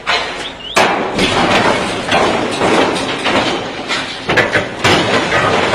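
A sudden heavy impact about a second in, followed by a rough, continuous clatter with repeated knocks and bangs.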